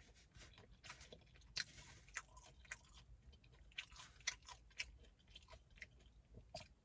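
A person chewing a crunchy hard-shell taco close to the microphone: faint, irregular crunches and wet mouth clicks, with a longer crunch about one and a half seconds in.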